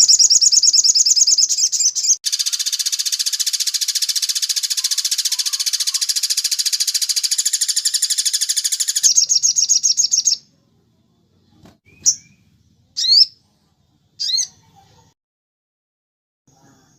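Sogon songbird singing: a fast, high trill, then a long harsh, buzzy trill lasting about seven seconds, a return to the clearer trill, and then three short sweeping chirps with gaps between them.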